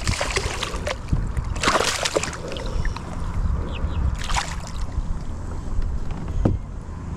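Water sloshing around a kayak on the move, over a steady low rumble, with two short splashy rushes about two seconds and four seconds in.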